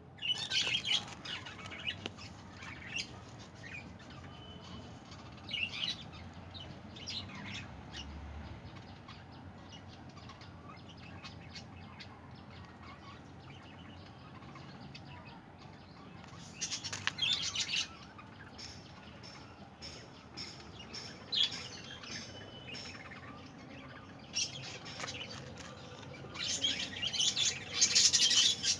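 Budgerigars chirping and chattering in short bursts, with a longer, louder spell of chattering near the end.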